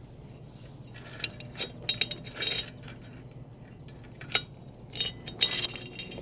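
Short, irregular metallic clinks and rattles, about seven of them, from a bicycle chain that has come off being worked back onto its sprocket.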